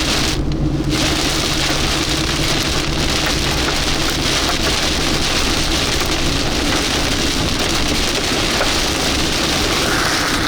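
Steady heavy rain pelting a vehicle, an even dense hiss, with a low steady vehicle hum underneath.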